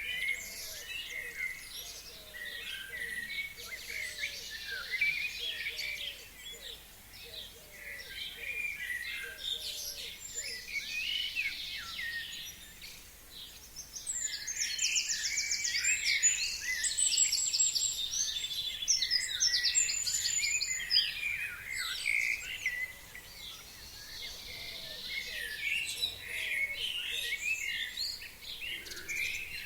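A chorus of forest songbirds singing and chirping over one another, busier in the second half. A fast, high trill comes in about halfway through and again near the end.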